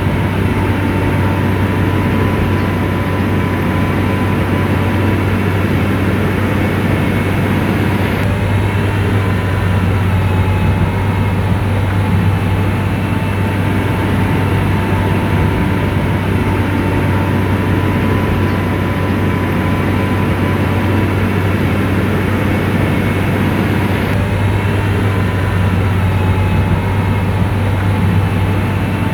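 Motor grader's heavy diesel engine running steadily, with a low hum and a steady higher whine over it.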